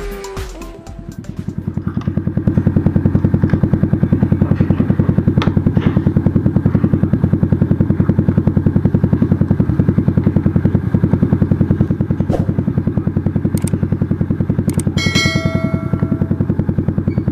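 Rusi Korak 110 motorcycle's small single-cylinder engine idling steadily, an even rapid putter heard close up from the bike, fading in over the first two seconds. About fifteen seconds in, a short bright chime sound effect rings over it.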